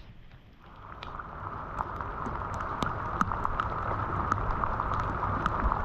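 Water flowing and gurgling, with many small pops and splashes; it swells in about a second in and then holds steady.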